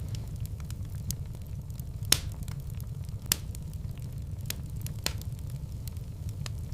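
Fireplace fire crackling over a steady low rumble of flame, with irregular sharp pops; the two loudest pops come about two seconds and three seconds in.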